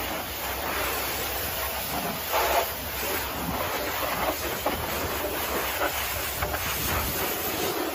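Steady hiss of high-pressure water spray from a car wash pressure washer, swelling briefly louder a couple of times.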